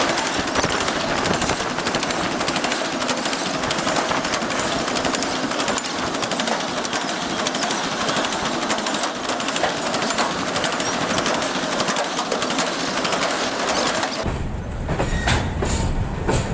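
Freight train of ZBKH hopper wagons rolling past close by: steel wheels on rail, a dense clatter of rapid clicks and clanks. About fourteen seconds in the sound turns to a deeper rumble with a few separate sharp clacks.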